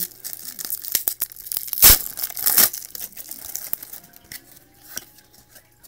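A trading card pack wrapper being torn open and crinkled, the loudest tear about two seconds in, with crackling and card handling before and after.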